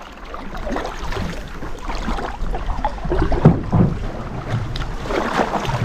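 Canoe on a river: water splashing and sloshing around the hull and paddles, with knocks and bumps against the boat and wind buffeting the microphone. The bumps are loudest about three and a half seconds in.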